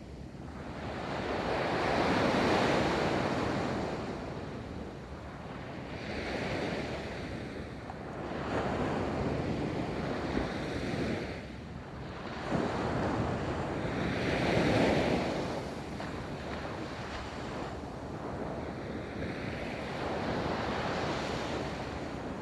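Ocean waves breaking and washing up a beach, a steady surf wash that swells with each breaker every few seconds, with a little wind on the microphone.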